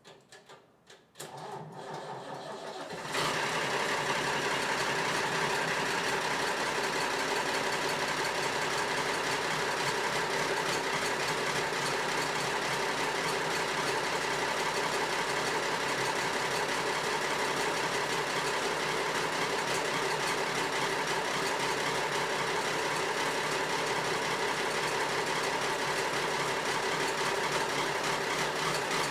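8730 tractor's engine being started: a few clicks, a short spell of cranking, then the engine catches about three seconds in and runs steadily.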